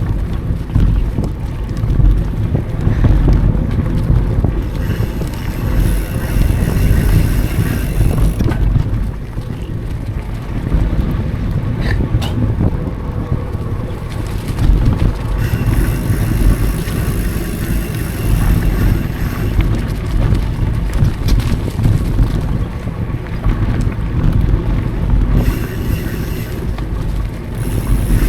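Mountain bike riding on dry singletrack: low wind rumble on the action camera's microphone and tyre noise on the dirt, with a higher buzzing hiss from the rear hub's freewheel coming and going three times as the rider coasts, and a few sharp rattles about twelve seconds in.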